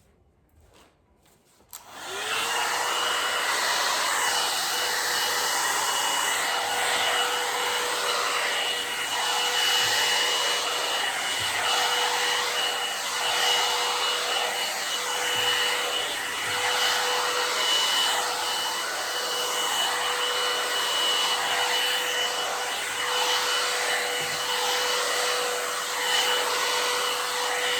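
Hand-held hair dryer switched on about two seconds in and blowing steadily, a motor whine over the rushing air, the air sound wavering as the dryer is moved about.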